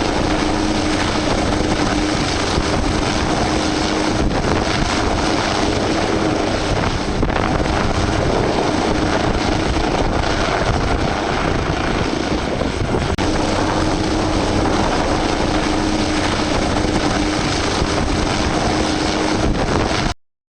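Aircraft engine noise mixed with heavy wind rushing over the microphone. A steady drone fades out a few seconds in and comes back later. The sound cuts off abruptly near the end.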